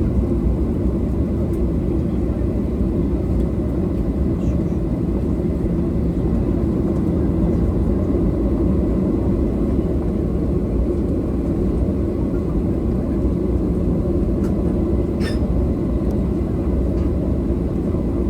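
Steady low rumble of a Boeing 737-800's jet engines and cabin air heard from inside the passenger cabin, with a faint click about fifteen seconds in.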